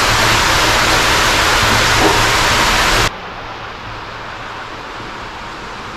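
Loud steady rushing noise that cuts off abruptly about three seconds in, giving way to a much quieter steady hiss.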